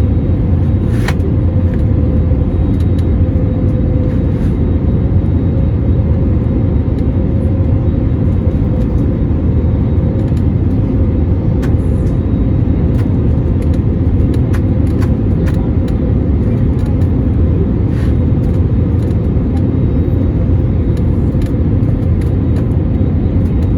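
Steady cabin noise inside a passenger jet: a loud, even rumble of the engines and airflow, with a faint steady hum above it.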